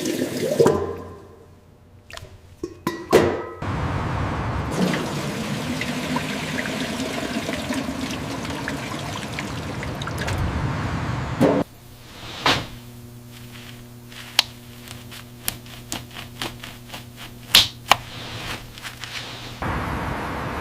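Liquid pouring and splashing for several seconds after a couple of knocks, then a steady low hum with scattered clicks for several seconds.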